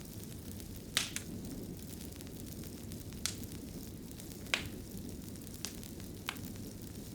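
Fireplace fire crackling: a steady low rumble of flames with about six sharp pops scattered through, the loudest about a second in and a little past the middle.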